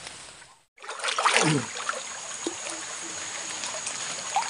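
Night riverside ambience: a steady high-pitched insect drone over light water trickling and small splashes. About a second in, a short sound slides down in pitch.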